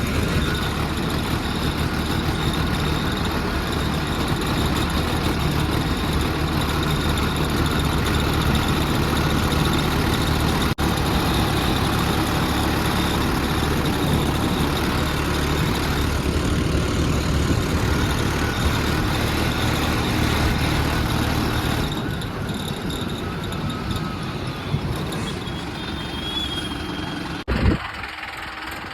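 Tractor engine running steadily. It gets quieter about 22 seconds in, and there is a brief loud knock near the end.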